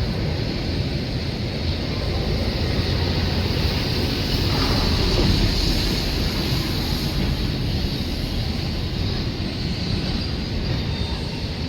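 Train running along the track: a steady rumble of wheels and carriages, swelling slightly a few seconds in.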